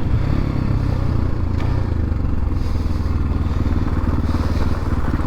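X-Pro Templar X 250 dirt bike engine running at a steady pitch while the bike is ridden, with some faint clatter.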